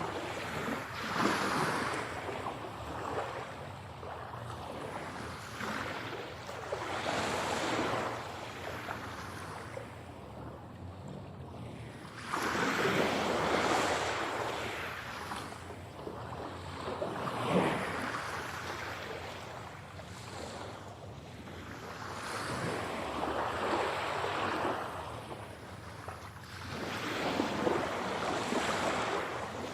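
Sea waves breaking and washing onto a shore, surging and ebbing every few seconds, with the loudest surge about twelve seconds in.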